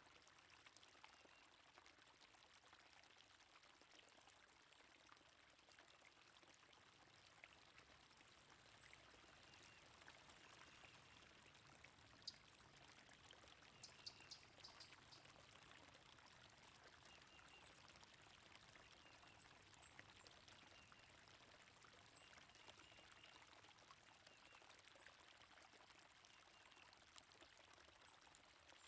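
Faint steady flow of a stream, with quiet short bird chirps scattered over it.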